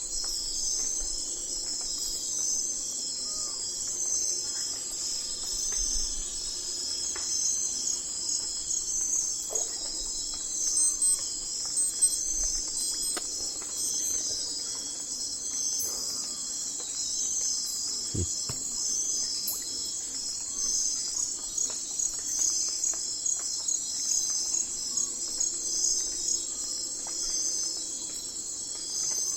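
Dense chorus of night insects, crickets among them, trilling steadily high in pitch with an even pulsing rhythm.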